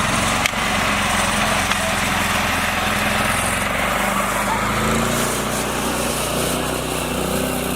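Small mini tractor engine running steadily, with a brief knock about half a second in.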